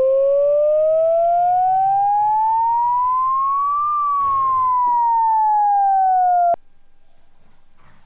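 Electronic wailing siren: a clean, pure tone sliding slowly up for about four seconds, then back down, until it cuts off abruptly with a click about six and a half seconds in.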